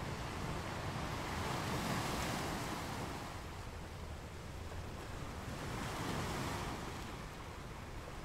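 Sea waves washing onto the shore: a steady hiss of surf that swells twice, once around two seconds in and again around six seconds in, and eases off in between.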